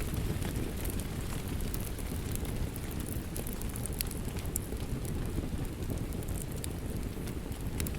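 Wood fire crackling in a fireplace: a steady low rumble of the flames with irregular sharp pops and snaps scattered through it.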